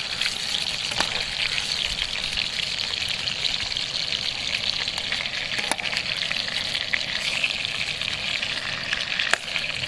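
Chicken pieces frying in hot oil in a pan: a steady sizzle with scattered crackles.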